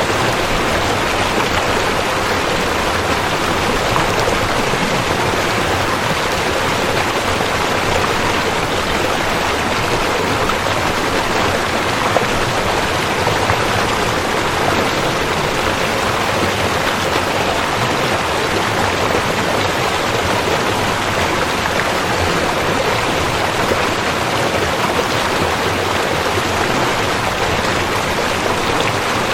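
River water flowing over rocks, a steady rushing and babbling that does not change.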